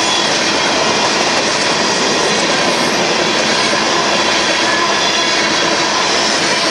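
Union Pacific freight train of covered hopper cars rolling past, the loud steady noise of steel wheels on rail, with thin high squealing tones over it.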